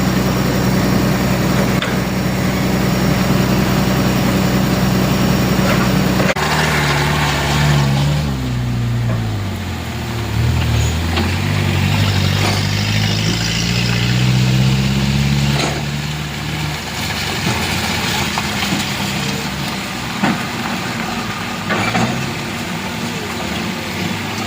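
Heavy truck diesel engine running steadily, then about six seconds in its note changes abruptly and the engine speed drops and climbs again as it revs under load, before settling to a quieter running sound.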